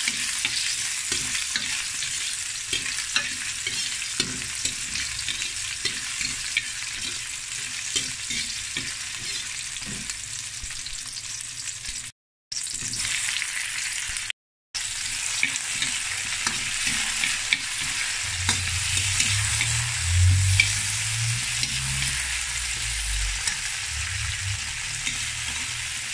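Sliced onions and garlic, with tomato wedges, sizzling in hot oil in a metal pan while a metal spoon stirs them, scraping and clicking against the pan. The sound cuts out twice briefly near the middle, and a low rumble joins in during the second half.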